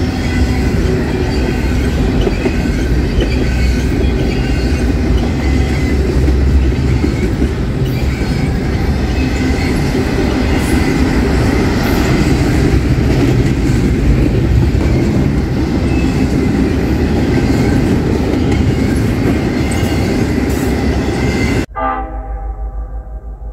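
CN double-stack freight train rolling past: a loud, steady roar of wheels on rail with heavy low rumble and scattered ringing tones. It cuts off abruptly about two seconds before the end.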